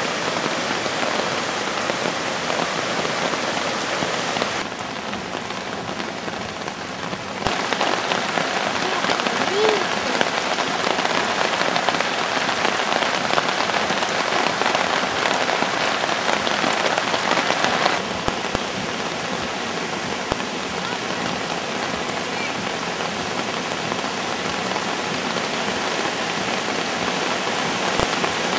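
Steady rushing noise of a flooded creek running as a fast torrent. The sound drops briefly about five seconds in and steps down again about eighteen seconds in.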